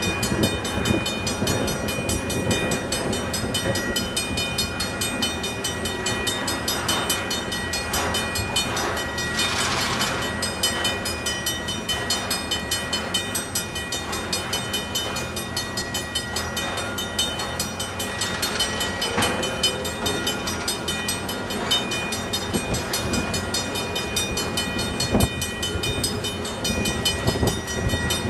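Freight train tank cars rolling steadily through a grade crossing, their steel wheels clacking and knocking over the rail joints and crossing. A steady ringing from the crossing's warning bell runs over the rolling noise.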